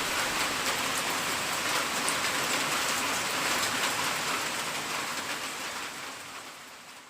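Steady rain falling on a surface, a dense hiss with scattered pattering drops, fading out over the last couple of seconds.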